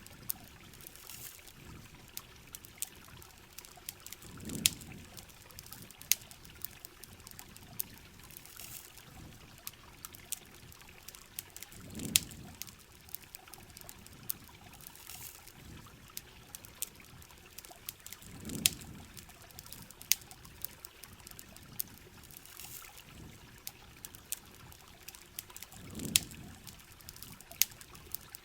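Campfire crackling with sharp pops over a steady wash of rain and running water, with a low swell about every seven seconds.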